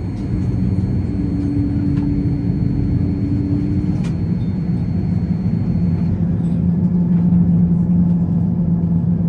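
Steady low rumble of a Boeing 787-9 heard inside the cabin, with a low hum that drops in pitch about halfway through and grows a little louder.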